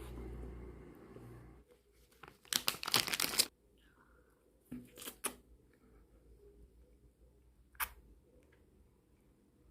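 Plastic ice cream wrapper rustling: one crackly burst of about a second, two shorter ones a couple of seconds later, and a sharp click near the end.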